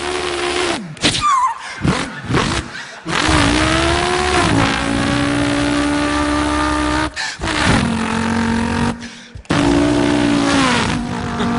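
A man imitating a car engine with his voice: a few short revving blips, then long revving notes that rise, hold steady and drop, cut by brief breaks like gear changes about three, seven and nine seconds in.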